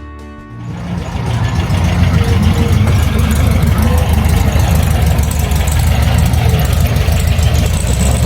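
Music cuts out about half a second in, then a car engine runs at idle with a dense low rumble, coming up over the next second and holding steady.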